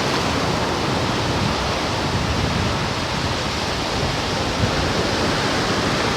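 Ocean surf washing up the beach at high tide: a steady, even rushing of waves.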